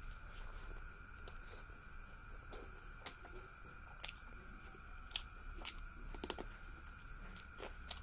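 Close-up eating sounds of rice and fish being eaten by hand: chewing and mouth smacks with a scattering of sharp clicks, over a steady background of crickets chirping.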